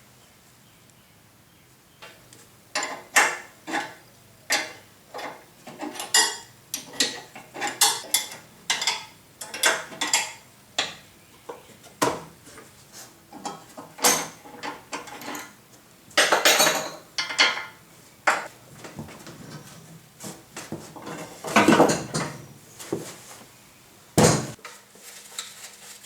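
Irregular metal-on-metal clinks and clatter of hand tools and loose steel parts being handled during disassembly of a cast-iron planer, starting about two seconds in, with longer rattling bursts about two-thirds of the way through and again near the end.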